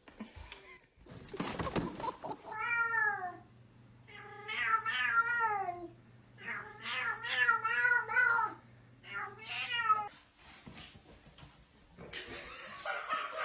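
A cat meowing in several long, drawn-out calls, each wavering in pitch and falling away at its end. A short noisy rustle comes before the first meow.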